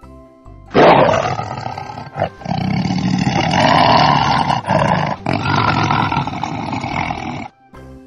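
Tiger roaring: a long run of rough, drawn-out roars starting about a second in and stopping just before the end, loudest at the first roar, with a few short breaks between.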